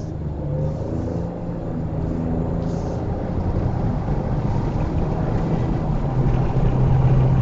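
Steady engine and road noise of a car on the move, with a low engine hum that gets a little louder near the end.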